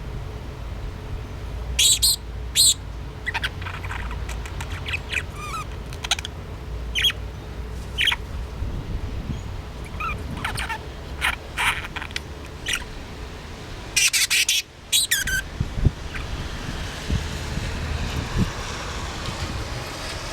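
Budgerigar chirping in short, scattered calls, with a louder burst of chatter a little past halfway through.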